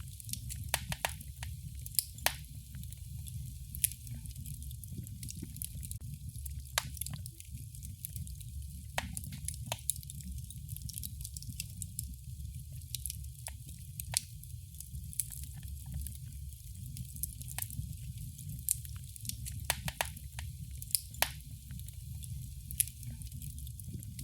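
Wood fire burning in a fireplace: irregular sharp crackles and pops, often several a second, over a steady low rumble and a soft hiss.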